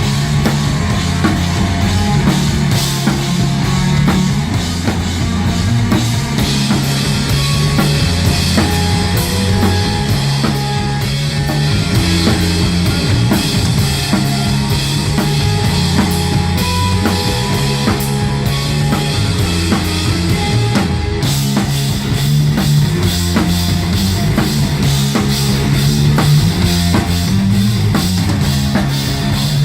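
Live rock band playing: a drum kit with cymbals over a repeating low bass riff, with no singing.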